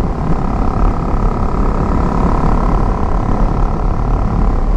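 Motorcycle riding with wind rushing over a helmet-mounted microphone, a steady dense rumble, with the motorcycle engine running at an even pitch underneath.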